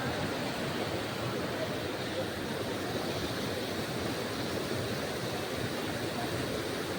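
Steady rush of water pouring from a lake that is overflowing after heavy rain.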